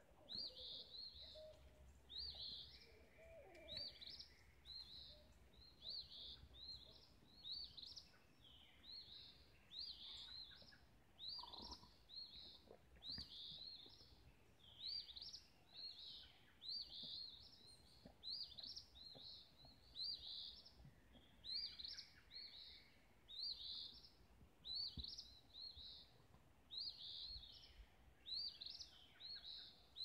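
Dawn chorus of wild birds, faint. One bird repeats a short, high note over and over, about one and a half times a second, with a few softer, lower calls from other birds behind it.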